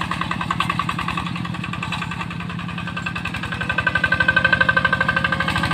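Yanmar tractor engine running with a rapid, even chugging beat that gets louder about halfway through.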